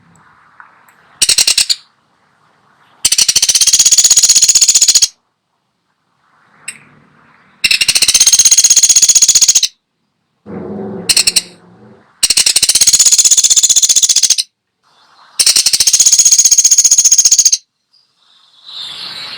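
Woodpecker (pelatuk sampit) giving loud, rapid rattling trills: four long runs of about two seconds each and one short run, separated by pauses. A shorter, lower and rougher call comes between the trills about eleven seconds in.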